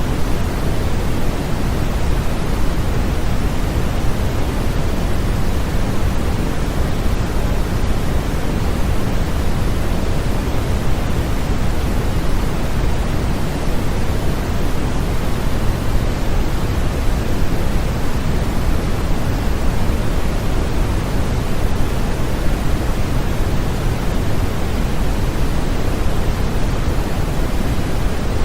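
Steady synthetic white noise, even and unchanging, heavier in the low end than in the highs.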